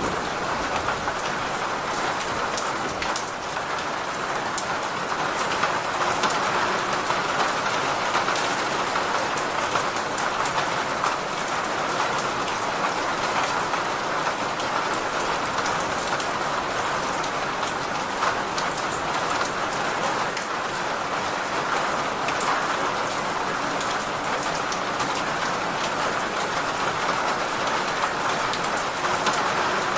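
Steady rain falling: an even, unbroken hiss of drops with scattered sharper ticks.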